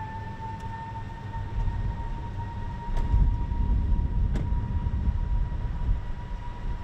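Outdoor tornado warning siren sounding one long, slowly rising tone that fades out near the end, over a gusty low rumble.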